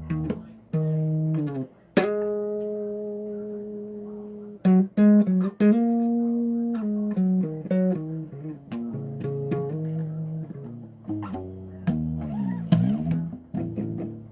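Bass guitar played solo: single plucked notes and short runs, one note about two seconds in left ringing and slowly fading, with sliding, bent notes near the end.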